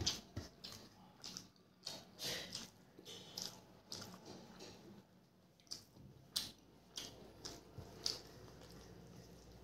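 Close-up eating sounds of a person eating rice and moong dal by hand: wet chewing and lip smacks with fingers squishing rice, as a run of short, irregular smacks and clicks.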